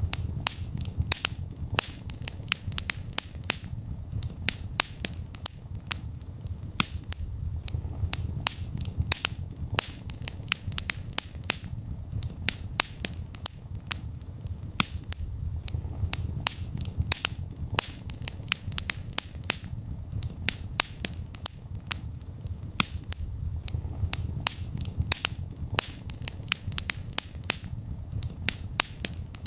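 Wood fire in a fireplace crackling, with sharp irregular pops and snaps several times a second over a low steady rumble of the burning.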